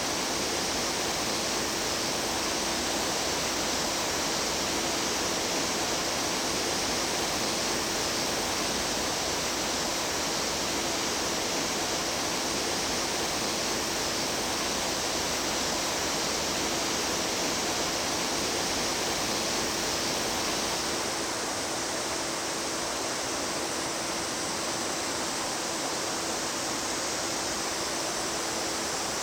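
Mountain stream water rushing over rocks, a steady full hiss. About two-thirds of the way through it turns a little quieter and thinner, with less low rumble.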